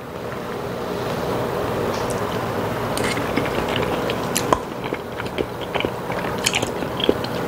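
Close-miked chewing of a mouthful of fire-grilled spicy pork intestine (bul-makchang): a steady chewing noise with small clicks scattered through it.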